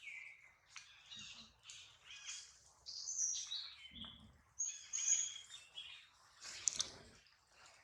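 Small birds chirping and twittering in quick, high calls, with a short whistled note falling in pitch at the start and a brief rustling noise near the end.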